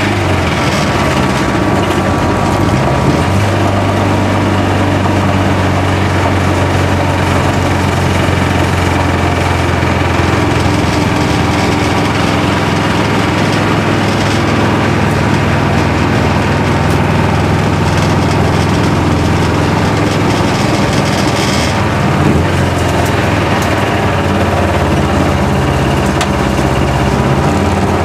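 Race car's engine running hard under load, heard from inside the cockpit. The engine note changes a few seconds in and again later on.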